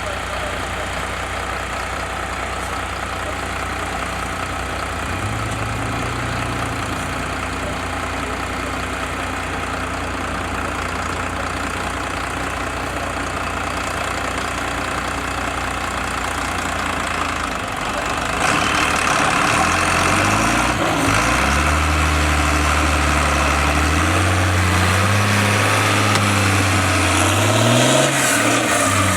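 Heavy diesel engine of an MAN 6x6 truck-trial prototype running at low revs. More than halfway in it gets louder and is revved, its pitch stepping up and down and climbing again near the end.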